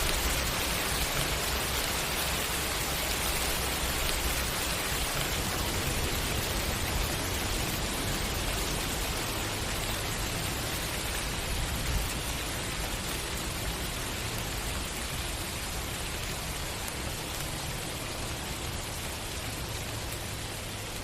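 Steady rain falling, a dense even hiss, easing slightly softer over the stretch, with one brief louder tap about halfway through.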